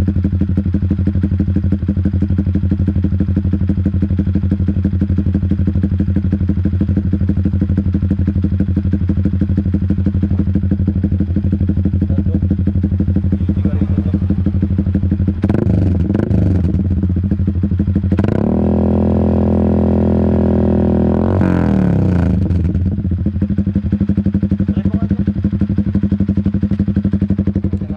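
Yamaha Sniper 150's single-cylinder four-stroke engine running through an open ProLiner racing exhaust with the silencer removed. It runs steadily, is blipped twice a little past halfway, then revved and held high for about three seconds before dropping back.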